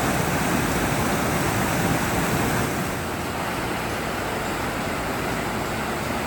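Steady rush of fast-flowing water, a loud even roar with no rhythm, dropping slightly in level about two and a half seconds in.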